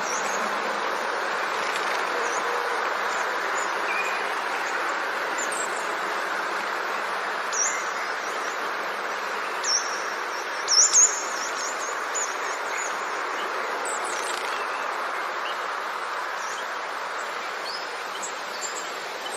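Bird chirping: short high calls scattered through, the loudest cluster about eleven seconds in, over a steady background hiss.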